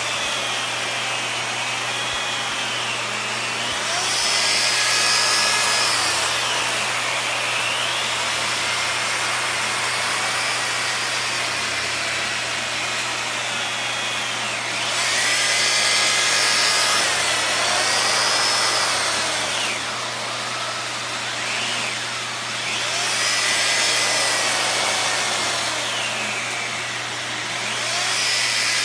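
Dyson vacuum cleaner running continuously, its whine gliding up and down in pitch, with louder spells about four seconds in, around the middle, and again later.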